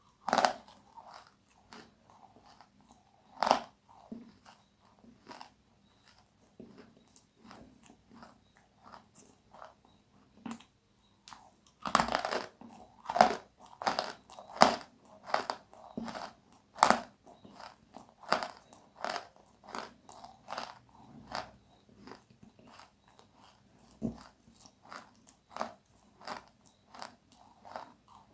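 Close-miked eating of crispy, crunchy food: loud crunching bites followed by runs of chewing crunches, with a dense cluster of loud bites about halfway through.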